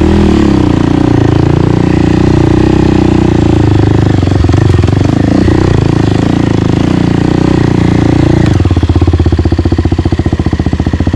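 Single-cylinder dirt bike engine running under throttle, its pitch shifting in the first seconds, then settling about eight and a half seconds in to an idle with a fast, even putter.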